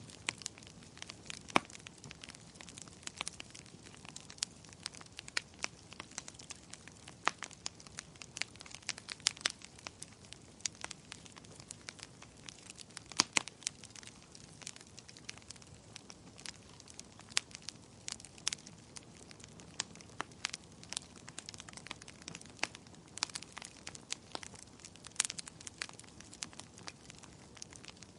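Wood fire crackling in a fireplace: irregular sharp pops and snaps, several a second, over a soft steady hiss of flame.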